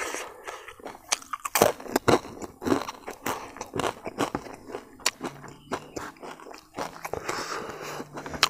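Close-up chewing of crispy smoked and fried pork intestine: a run of irregular crunches as it is bitten and chewed.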